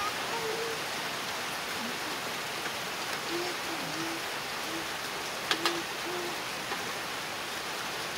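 Steady hiss of light drizzling rain, with a few short low notes here and there and two sharp clinks, likely a utensil on a dish, about five and a half seconds in.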